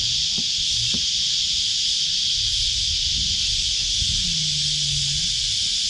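Steady, unbroken high-pitched drone of a cicada chorus.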